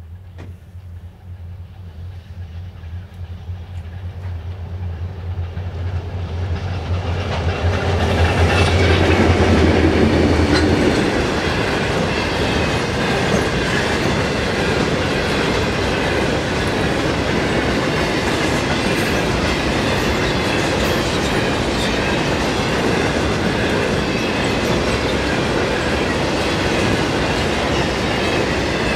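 Pair of L class diesel-electric locomotives hauling an empty grain train. Their engine drone grows louder as they approach and is loudest as they pass about 8 to 11 seconds in. After that comes the steady rumble of the empty grain hopper wagons rolling past.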